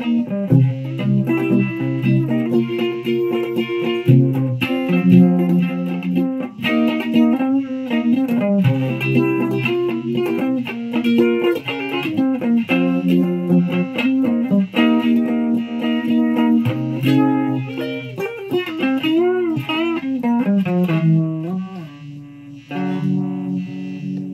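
Electric guitar played in single-note and double-stop phrases, with string bends and vibrato; it gets quieter for a moment near the end.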